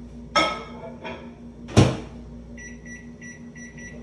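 Microwave oven handled: two knocks, then the door shut with a loud thud, followed by a quick run of five short electronic beeps from the keypad as the cooking time is set.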